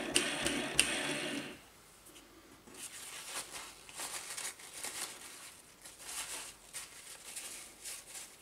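Hand handling noise from working on motor parts: a steady rushing noise with two sharp clicks for about a second and a half, then irregular light rustling and scraping.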